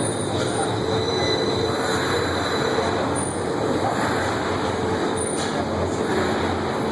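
Heathrow Express electric train running along the platform as it comes in to stop: a steady rumble with a held tone running through it.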